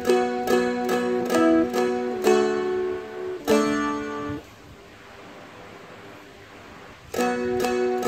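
Seagull Merlin M4, a four-string fretted dulcimer-style instrument, picked in a steady rhythm of chord notes. The playing stops about four and a half seconds in and starts again near the end.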